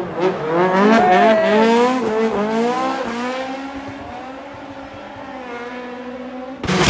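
Rally car engine revving hard, its pitch rising and falling with the throttle, then holding steadier and fading as the car moves away. Near the end a louder engine sound starts abruptly.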